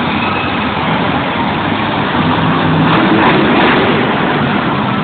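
Monster truck engine running in an arena amid a dense, echoing din, rising in level briefly around the middle.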